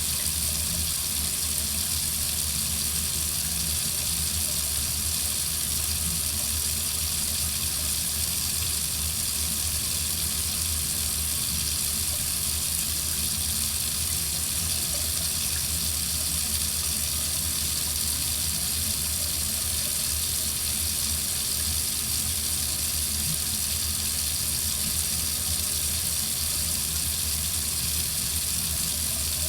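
Water running steadily from a faucet, an even hiss that does not change.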